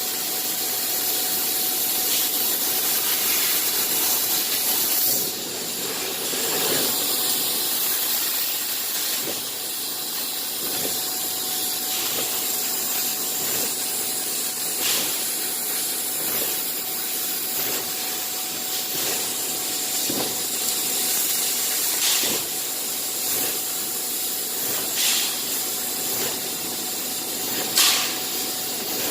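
Bystronic CNC cutting machine running: a steady hiss with a constant whine underneath, and now and then a short click or tick.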